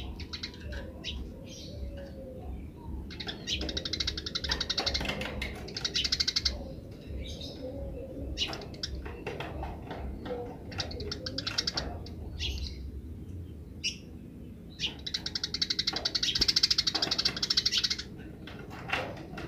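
Eurasian tree sparrows chirping, breaking into long bouts of rapid chattering ('grece') about three seconds in and again about fifteen seconds in.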